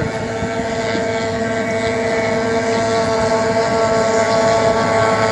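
Outboard engines of small racing hydroplanes running flat out, a steady high-pitched drone that holds its pitch and grows slightly louder.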